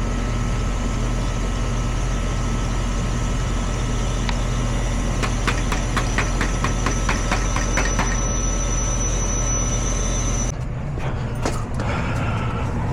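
R22 air-conditioning system's compressor and fan running with a steady hum, with a run of light clicks in the middle. The running sound cuts off suddenly about ten and a half seconds in.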